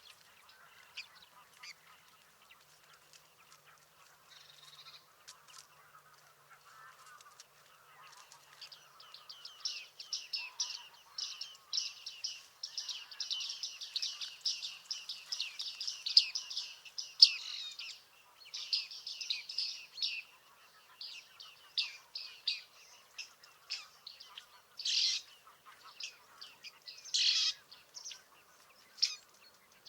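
Bearded tits calling: many short, quick calls, sparse at first, then coming thick and fast for about ten seconds through the middle, then scattered single calls again.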